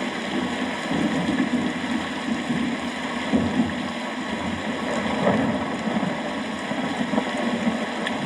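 Steady rain, a dense, even hiss with a wavering low rumble underneath.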